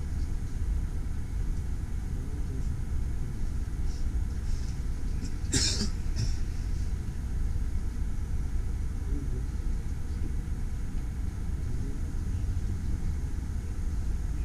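Low steady rumble inside a passenger train carriage rolling slowly. A single short, sharp hiss-like burst comes about five and a half seconds in.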